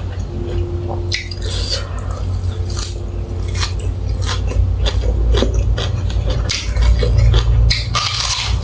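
Cutlery and dishes clinking and scraping in a string of short knocks and clicks, over a steady low hum.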